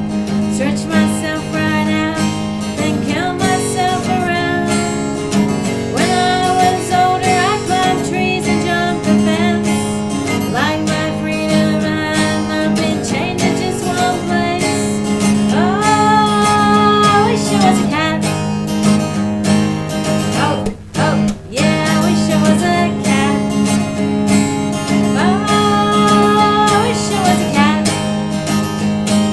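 Cole Clark Angel acoustic guitar strummed in a steady folk rhythm, with a higher melody line that slides up into its notes. The playing breaks off briefly twice about three-quarters of the way in.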